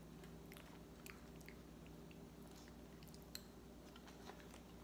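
Faint chewing and small scattered clicks of a metal spoon scooping frozen durian from a plastic tray, over a steady low hum.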